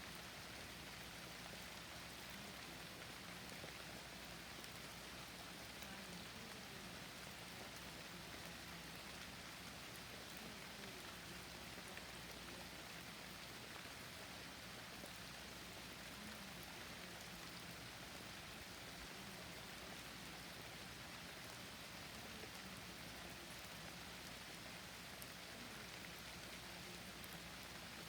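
Steady rain falling, a quiet, even hiss that keeps up without pause.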